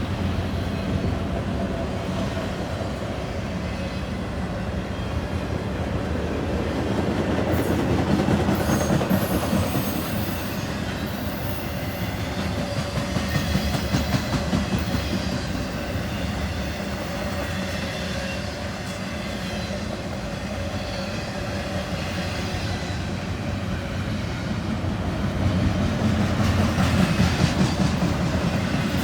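A Norfolk Southern intermodal freight train with diesel locomotives rolling past, a steady rumble that swells and eases as the train goes by, with a brief high wheel squeal about eight seconds in.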